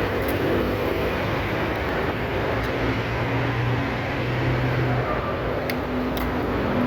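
Steady low rumble of engine and road noise, with a low hum that swells for a few seconds in the middle, and a few faint clicks.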